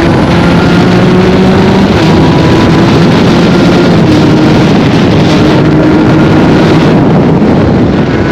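Aprilia RS 125 two-stroke single with an Arrow full exhaust running at speed, its pitch holding fairly steady, under heavy wind noise on the microphone.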